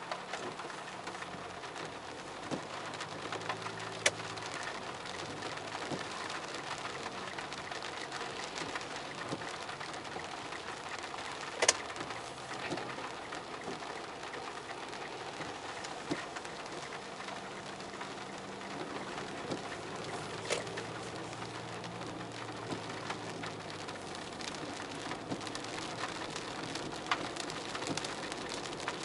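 Steady rain, with scattered sharper taps of drops, the loudest about a third of the way through.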